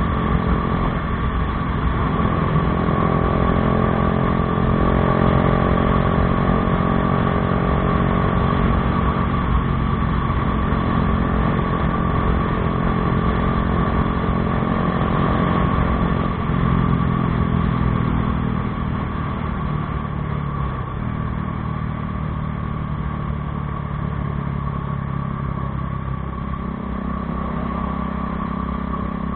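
Bajaj Dominar 400's single-cylinder engine running through an aftermarket Akrapovič exhaust, holding a steady note, then easing off to a slightly lower, quieter note about two-thirds of the way through.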